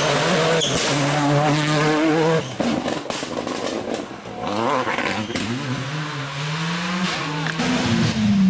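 Rally car engine running hard at high revs, dropping away sharply about two and a half seconds in, then an engine rising steadily in pitch as a car accelerates.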